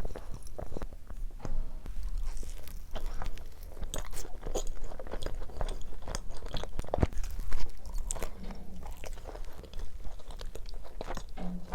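Close-miked eating of cheese-potato pizza topped with buldak fried noodles: irregular biting, crunching and chewing clicks.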